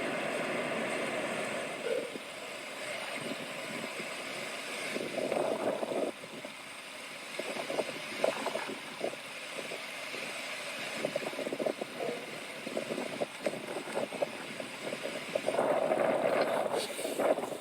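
Motor vehicle running, an uneven noisy rumble with scattered clicks and knocks.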